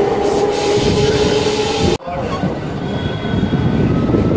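Suburban EMU local train running, heard from on board: a steady whine over the rumble of the wheels that cuts off abruptly about two seconds in, leaving a rougher rumble.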